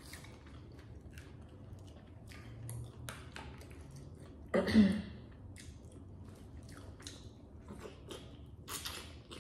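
Close-up chewing and wet squishing as a seafood boil is picked apart by gloved hands and eaten, with many small clicks and smacks. About halfway through comes a short voiced sound from the eater, the loudest moment.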